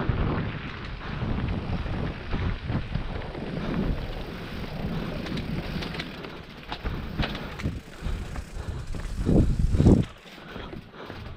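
Mountain bike descending a rough forest trail: tyres and frame rattling and knocking over the ground with wind on the microphone. Two heavy thumps come just before the ten-second mark, then the noise drops suddenly.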